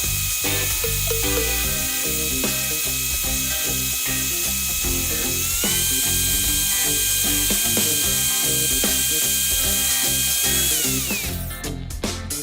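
Electric drill motor running with a steady whine, stepping up in speed about halfway through, then winding down and stopping near the end, over background music.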